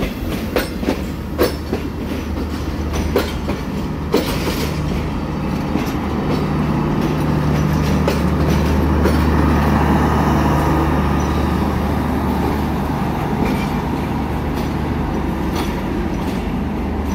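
Passenger train coaches rolling slowly past, the wheels clicking over rail joints about once a second at first. Then the power van passes with a steady low hum from its diesel generator, loudest about eight to ten seconds in and easing off as the train pulls away.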